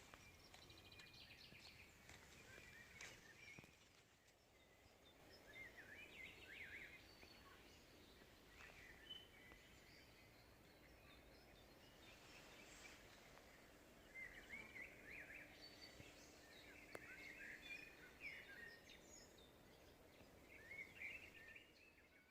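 Faint songbirds singing: short groups of quick twittering notes every few seconds.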